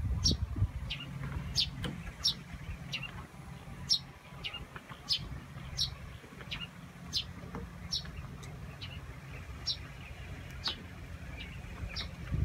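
A bird calling over and over, short high chirps that each drop in pitch, about one a second, over a steady low rumble.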